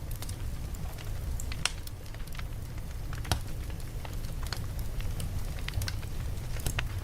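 Campfire crackling, with irregular sharp pops of burning wood over a steady low rumble; the loudest pop comes about three seconds in.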